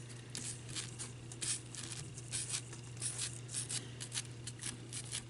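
Foam sponge dauber dabbing and brushing Mod Podge gloss onto an ornament: faint, soft scratchy strokes, irregular, a few per second.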